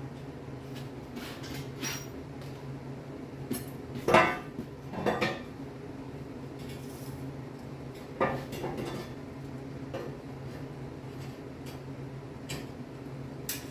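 Metal parts and tools clanking and knocking together a few times, the loudest knock about four seconds in and another cluster around eight seconds, over a steady low hum.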